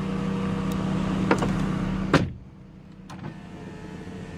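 A small electric motor in the car's cabin whirs steadily, then stops with a clunk about two seconds in. A single click follows about a second later.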